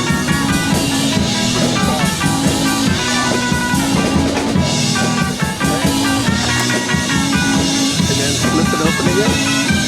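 Background music: a 1960s instrumental rock band with guitar, bass, drum kit and keyboards, playing at a steady beat.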